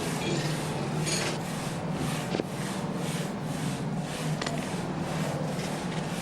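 Two-man crosscut saw cutting through an oak trunk by hand, in even back-and-forth strokes about three a second, over a steady low hum.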